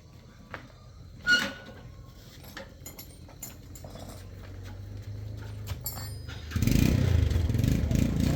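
Motorcycle engine starting about six and a half seconds in and running loudly, after a few light clicks and one ringing metal clink near the start.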